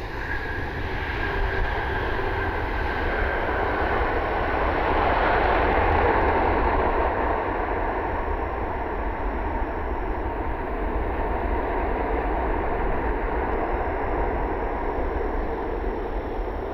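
Jet engines of a Boeing 737 MAX 9 airliner passing on its landing approach: a steady rush and rumble that swells to its loudest about five or six seconds in and then eases off, with a faint falling whine early on.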